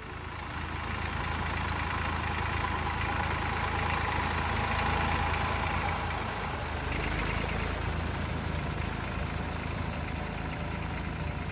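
Tractor engine running at a steady speed, fading in over the first second or so.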